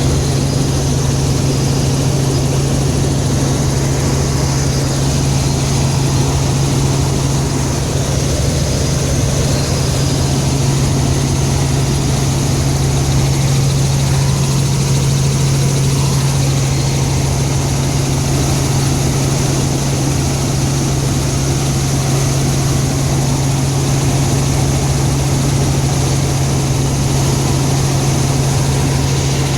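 Helicopter in flight, heard from inside the cabin: a steady drone with a strong, unchanging low hum over a constant rush of noise.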